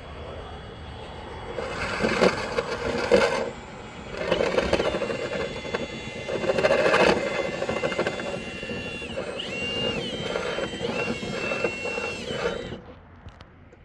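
Drill-spun rotary brush running and scraping through a dryer vent duct, in uneven surges with a motor whine. It stops near the end.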